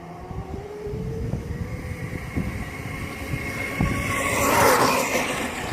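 Motorcycle engine accelerating toward and past the microphone, its note climbing steadily in pitch and growing louder, loudest with a rush of noise about four to five seconds in as it goes by.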